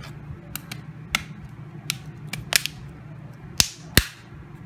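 Back cover of a Redmi 4A phone being pressed on, its clips snapping into place: a series of sharp clicks, the two loudest near the end.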